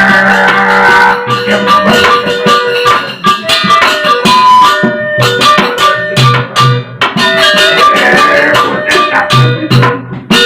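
Gending wayang Sasak, the instrumental music of Lombok shadow-puppet theatre, played by its ensemble: quick struck notes over held tones, with deep drum beats.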